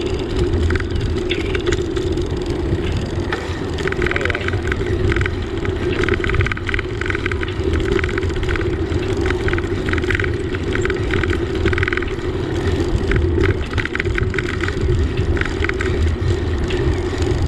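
Wind buffeting a helmet- or bike-mounted action camera's microphone while riding a bicycle, a steady low rush with the bike's running noise under it. Short bursts of rapid ticking come through several times, about 4, 10 and 15 seconds in.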